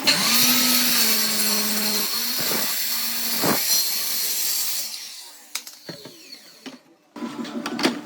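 A power tool starts, its pitch rising briefly, runs steadily for about five seconds, then winds down. A few sharp knocks follow.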